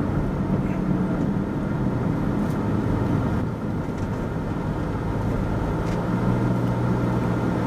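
Car driving slowly, heard from inside the cabin: a steady low engine hum with road noise.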